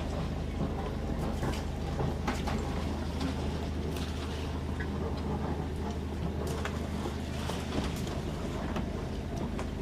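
Steady low engine drone with a constant pitch, with scattered light clicks and knocks over it.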